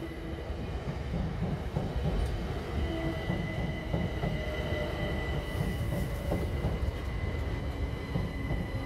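Southern Class 377 electric multiple unit passing: a steady rumble of wheels on the rails, with a thin steady high-pitched tone running alongside.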